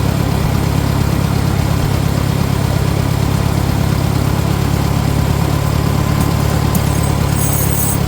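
Tractor engine idling steadily with an even, rapid low pulse.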